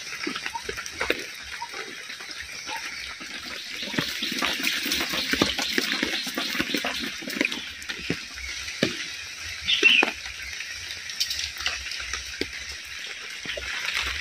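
Steady rain falling, with scattered knocks and drips.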